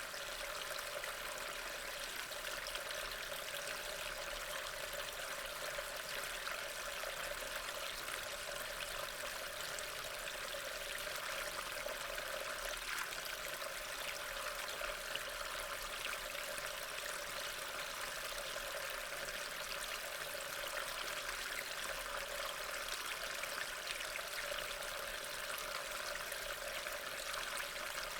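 Steady rain, an even hiss of falling rain with no changes or breaks.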